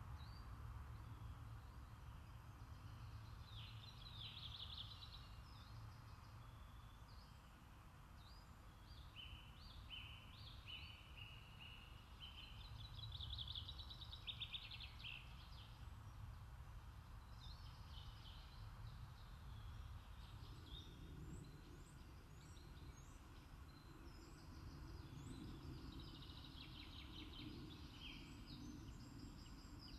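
Faint outdoor ambience: small birds giving scattered chirps and short trills over a steady low rumble.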